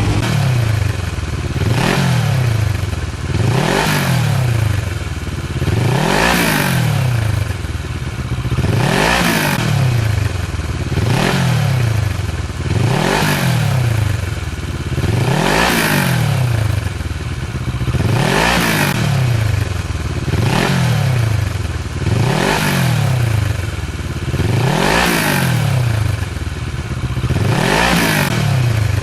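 Kawasaki Versys 650's parallel-twin engine revved again and again through a newly fitted LeoVince SBK stainless-steel slip-on exhaust, the pitch climbing and falling back about every two and a half seconds.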